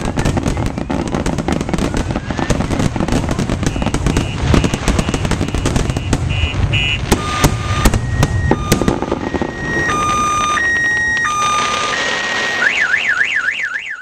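Fireworks finale: a dense run of rapid cracks and booms that thins out after about nine seconds. From about seven seconds a car alarm sounds over it, first alternating between two steady tones, then near the end switching to a fast rising-and-falling warble; the blasts have set the alarm off.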